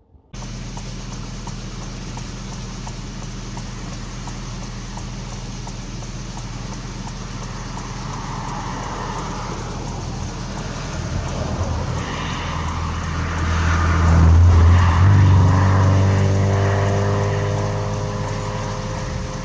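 A motor vehicle's engine running steadily, growing louder about two-thirds of the way through and then easing off.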